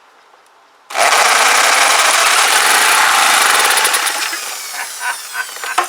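Small petrol engine of a Clarke pressure washer starting about a second in and running loud, then easing somewhat lower after about four seconds. It fires after the spark plug has been cleaned.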